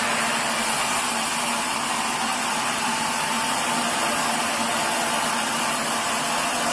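Sawmill machinery running steadily: a continuous, even mechanical noise with a faint hum, without a break or change in level.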